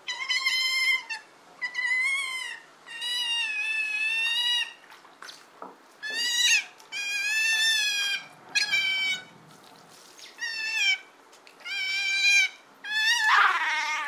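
A cat meowing over and over: about nine high-pitched meows in a row, each under a second to about a second long. The last one slides down in pitch near the end.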